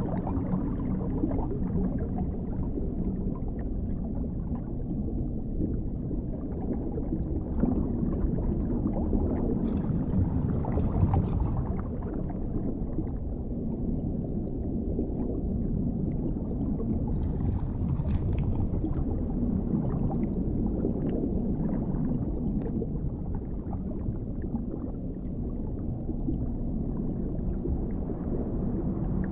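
Dark underwater ambience: a steady, muffled low rumble with a faint low hum, and brief faint higher sounds twice, about a third of the way in and again past the middle.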